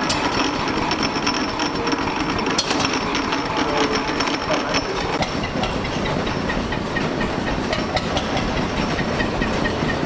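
Ogle patent hot-bulb paraffin oil engine running, a steady rapid mechanical clatter with a hiss.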